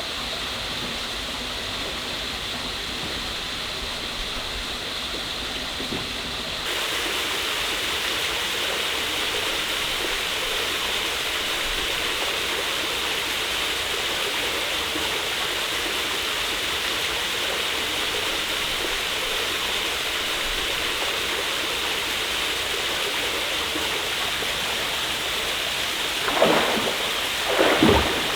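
Waterfall water rushing in a steady, even roar of noise, which grows louder and brighter about a third of the way in. A few short, louder sounds break in near the end.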